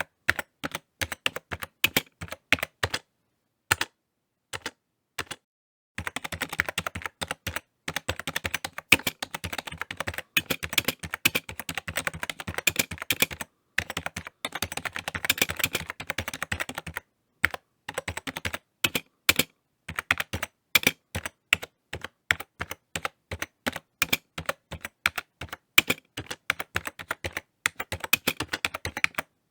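Typing on a computer keyboard: rapid key clicks in irregular runs with short pauses, sparse in the first few seconds, then a fast dense stretch of typing from about 6 to 17 seconds in, then steady typing again.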